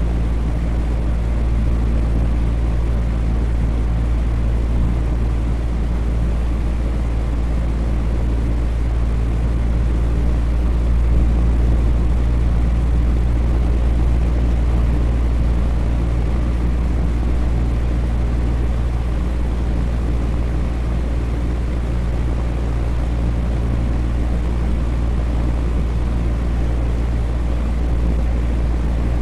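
Electric fan running steadily, a low hum with a few steady low tones and an even whoosh of moving air over it.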